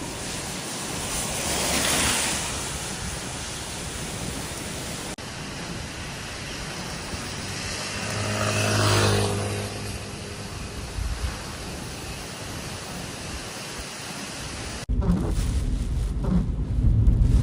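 Typhoon wind and rain noise, swelling and easing twice. In the last few seconds, strong gusts buffet the microphone with a heavy low rumble.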